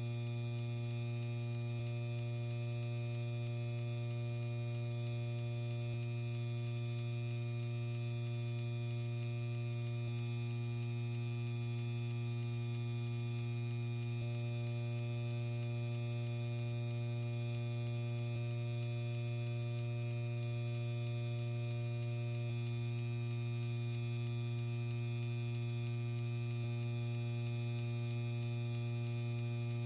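Lanai ceiling fan running, its motor giving a steady electrical hum that does not change.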